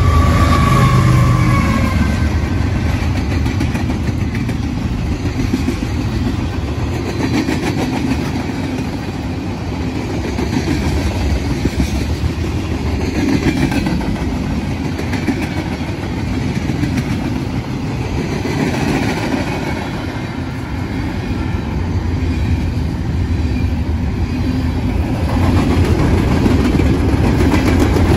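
Freight train rolling by: a steady rumble of steel wheels on rail with clickety-clack from covered hoppers and tank cars. A mid-train diesel locomotive passes at the start, with a heavier low rumble and a brief high squeal in the first two seconds.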